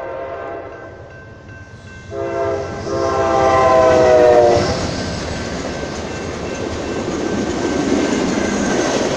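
Amtrak P42DC locomotive's horn sounding a long blast starting about two seconds in, its pitch dropping slightly as the locomotive passes, then the steady rumble and wheel clatter of the Talgo train set rolling by. A grade-crossing bell rings in the background.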